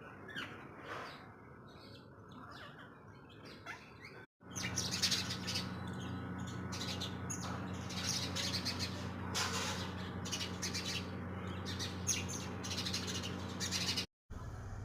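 Small birds chirping and twittering. From about four seconds in, after a brief dropout, a steady low hum runs under the chirps.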